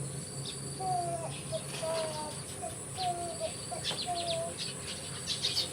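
Steady high-pitched insect drone, with short animal chirps coming several times a second and scattered clicks.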